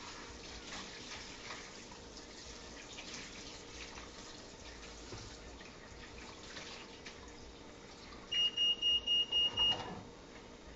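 An electronic beeper sounds six quick, high, evenly spaced beeps over about a second and a half near the end, loud above a faint steady background with light clicks.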